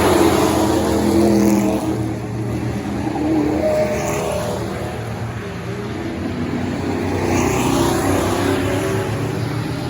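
Racing pickup trucks' engines running hard on an oval track, with several trucks passing by in turn, their pitch rising and falling.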